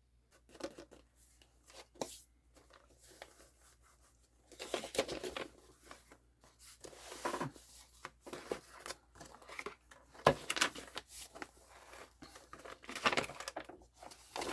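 Paper rustling, rubbing and scraping in short irregular bouts as a paper cut-out is glued and pressed onto a journal page, with a sharp tap about ten seconds in.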